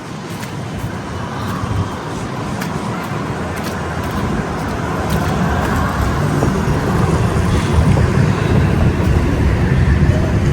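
Street traffic: the low rumble of a passing motor vehicle, growing steadily louder from about four seconds in.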